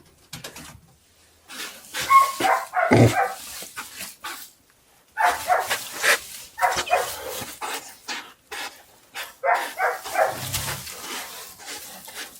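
Repeated loud animal calls in irregular bursts of short cries, with a couple of low thumps among them.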